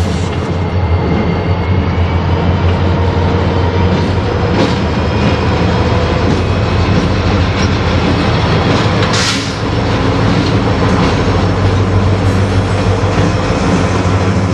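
Diesel freight locomotives running steadily as a train moves on the rails, with a brief sharp noise about nine seconds in.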